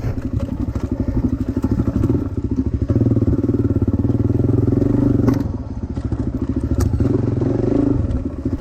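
Small dirt bike engine running under varying throttle, easing off twice and picking up again, with two sharp clicks along the way.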